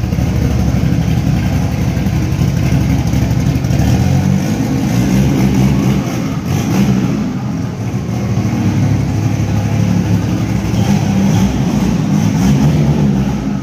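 Turbocharged 1.9-litre engine of a 1992 VW Voyage running at low revs while the car creeps along, a loud steady rumble that rises and falls slightly.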